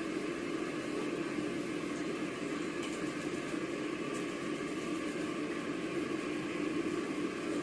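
Steady whirring hum of a small motor, with two faint ticks about three and four seconds in.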